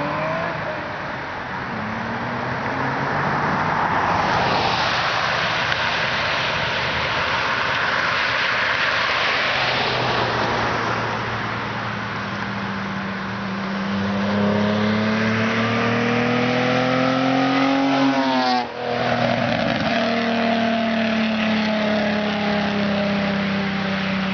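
Hyundai Tiburon (Tuscani) GT V6, cammed and running headers and a freer exhaust, driven past at high revs. A loud rush goes by first. Then the engine note climbs steadily under hard acceleration and cuts off abruptly about 18 seconds in, before coming back as a steady drone that falls slightly in pitch.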